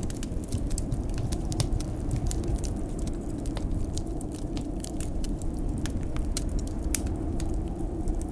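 Wood fire crackling, with frequent irregular pops and snaps, over a steady low rumble of blizzard wind.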